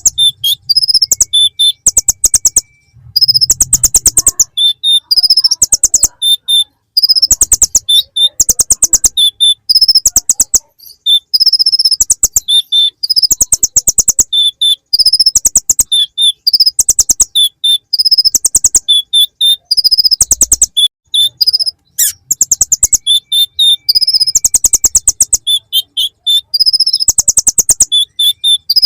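Kolibri ninja (konin) sunbird singing a high-pitched, chattering song in short phrases repeated every second or so, many of them fast ticking trills. The song is filled with phrases copied from the bar-winged prinia (ciblek).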